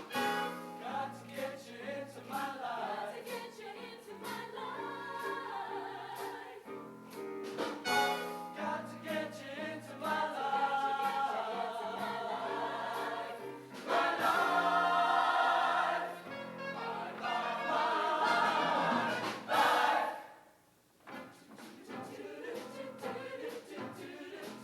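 High school show choir singing with instrumental accompaniment, the voices swelling to their loudest in the second half, then cutting off sharply about twenty seconds in before quieter music carries on.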